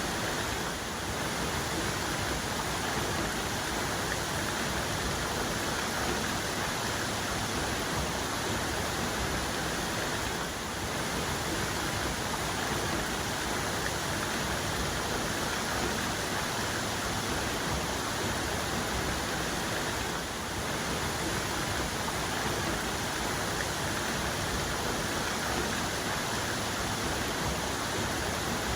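Waterfall cascade: water falling and churning in a steady, full rush.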